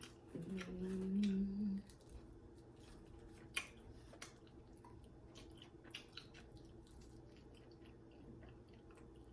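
A woman hums one held note for about a second and a half near the start. Then come quiet mouth sounds of chewing chicken wings, with scattered sharp clicks and smacks.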